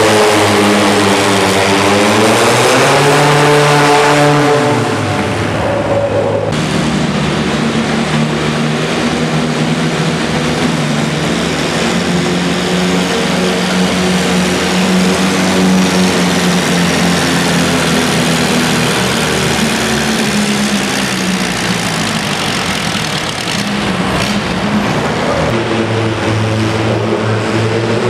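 Antique pulling tractor's engine running loudly. Its pitch dips and climbs over the first few seconds, changes abruptly about six seconds in to a steadier note, and rises again near the end.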